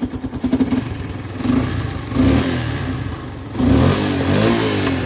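Yamaha FZ-S single-cylinder motorcycle engine running and revved twice, its pitch rising each time, after a timing chain repair. The mechanic judges it fine now.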